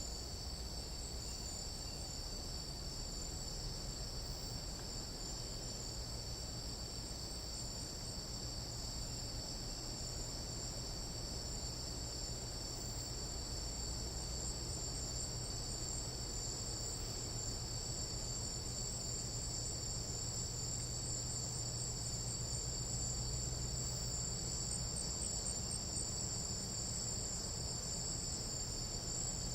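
Chorus of tropical night insects in a Panamanian jungle, a steady, unbroken high-pitched trilling in several overlapping pitches.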